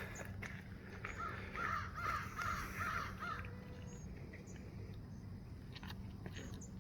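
A bird calling: a quick run of about six short, harsh calls, starting about a second in and stopping after about two seconds.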